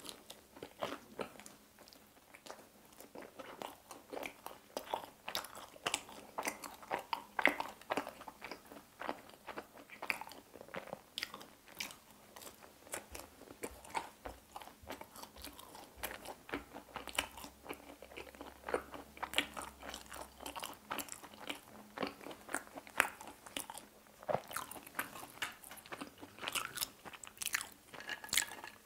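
Close-miked eating sounds of a person biting and chewing pizza: frequent crisp crunches and wet chewing clicks, ending with a sip from a glass.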